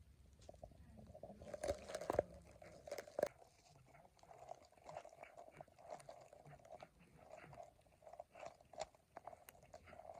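Kitten chewing and biting into a piece of meat, with irregular small crunches all the way through.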